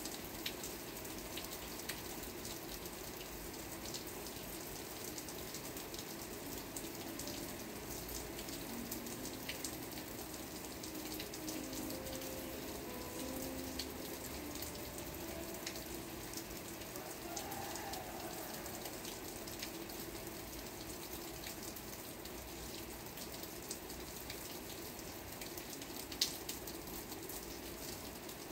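Steady rain with a constant hiss and many small drops ticking, and one sharper drip near the end. A few faint low held tones sound through the middle.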